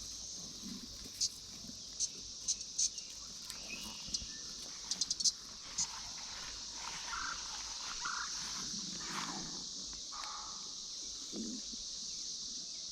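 Brood X periodical cicadas' chorus, a steady high-pitched drone, with a series of light sharp clicks in the first half.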